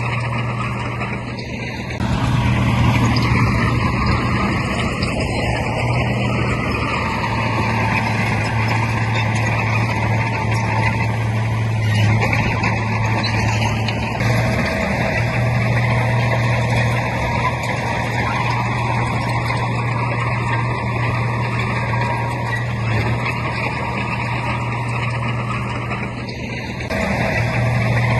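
Heavy diesel earthmoving machinery running: a steady deep engine drone with a broad noisy spread above it. It gets louder about two seconds in and dips briefly near the end.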